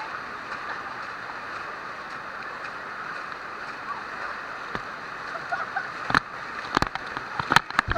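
Steady rush of a waterfall, with a few sharp splashes or knocks in the last three seconds.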